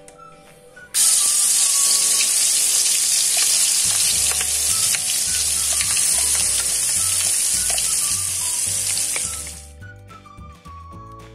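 Ground spice paste sizzling loudly in hot oil in an aluminium wok: the hiss starts suddenly about a second in as the paste hits the oil and dies down near the end. Background music plays underneath.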